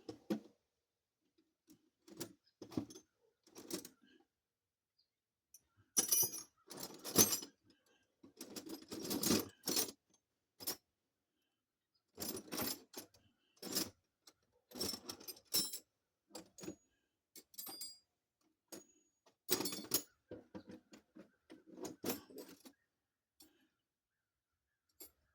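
Metal hand tools clinking and clattering as someone rummages through a toolbox: scattered runs of small clanks and rattles, busiest about six to ten seconds in and again around twenty seconds.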